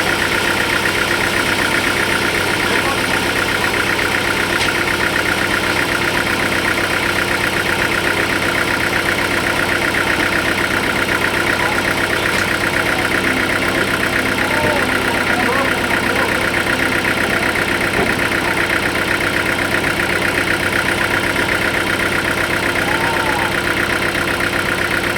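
Sawmill machinery running steadily, an engine-driven rig with a fast, even pulsing and a constant hum.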